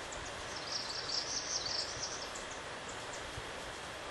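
Outdoor ambience: a steady background hiss with a brief run of high-pitched chirping a little over half a second in, lasting about a second, and faint high ticks now and then.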